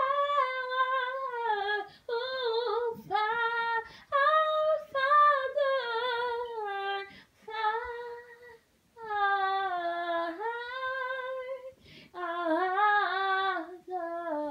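A woman singing a slow worship song unaccompanied, one voice in long held phrases separated by short breaths.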